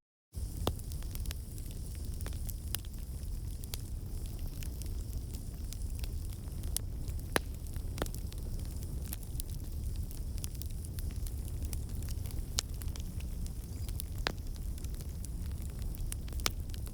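Wood fire burning in a fireplace: a steady low rumble of flames with irregular crackles and a few sharper pops. The sound cuts out completely for a split second at the very start.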